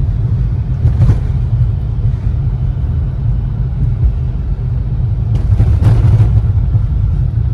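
A loud, steady low rumble with no voices, strongest in the bass and fluctuating.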